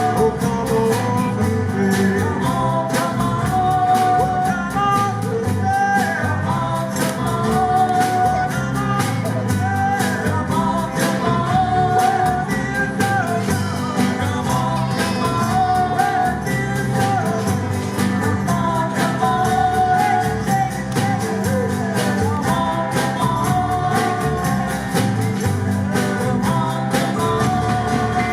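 Live band playing a song: singing over electric guitar, bass and a drum kit keeping a steady beat.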